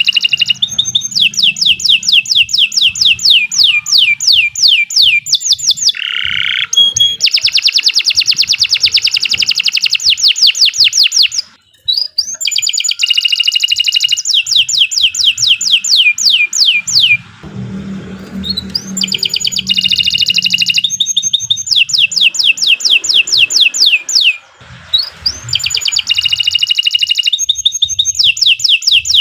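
Domestic canary singing long rolling trills of rapid repeated high notes, in phrases of several seconds with short pauses between them.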